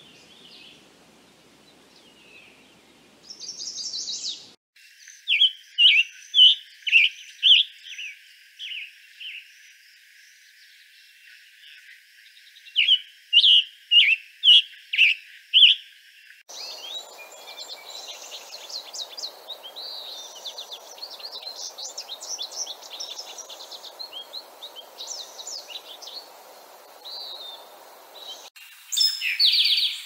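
Recorded songbird songs played one after another. A chestnut-sided warbler recording of faint calls and a short buzzy note ends a few seconds in. Next come two phrases of loud, clear repeated notes. Then a long stretch of rapid, rambling twittering song from an American goldfinch, and near the end an eastern towhee's song begins.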